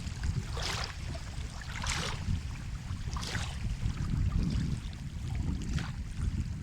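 Sea waves washing on the shore: a steady low rumble with four brief hissing splashes of water spread through it.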